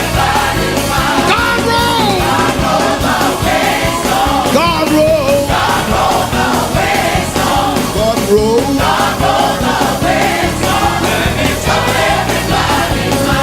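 Pentecostal gospel music with a steady beat and choir singing, melodic runs sliding up and down over the band.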